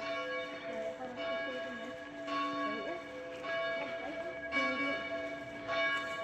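Church bells ringing, a fresh stroke about every second over the hum of the ones before.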